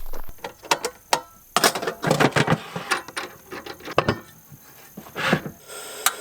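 Irregular metal clicks and rattles as parts of a new portable camp stove are fitted and screwed together. Near the end a steady hiss sets in as the stove's gas burner comes on.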